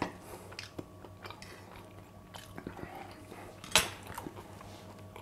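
A person chewing a mouthful of cooked lamb tenderloin, with small crunching clicks and one sharp click a little under four seconds in.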